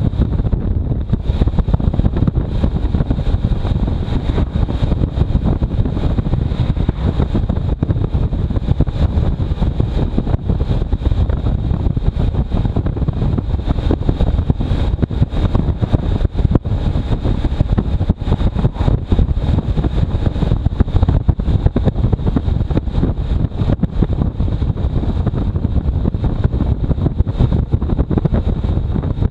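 Riding motorcycle with wind buffeting the microphone: a loud, steady rumble, heaviest in the low end, with no letup.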